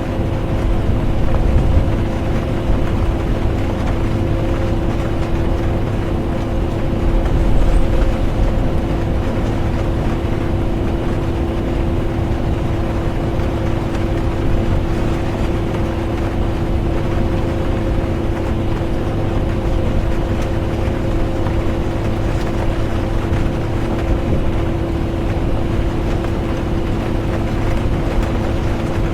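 Interior of a moving bus: steady engine and road rumble with a constant drone, swelling slightly twice early on, with rain on the bus.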